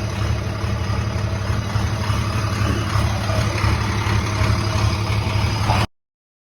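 A vehicle engine running steadily with a low, even hum. The sound cuts off suddenly near the end.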